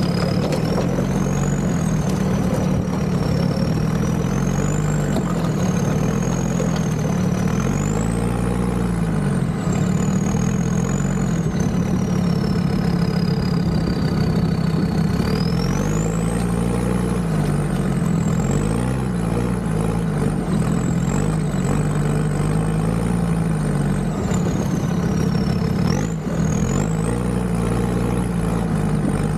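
An off-road 4x4's engine working at low speed, its revs rising and falling again and again, with a high whine that follows the revs.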